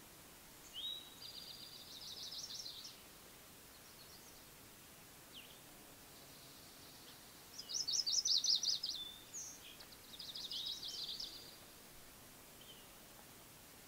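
A songbird singing three short trilled songs of quickly repeated high notes, each about two seconds long; the middle song is the loudest.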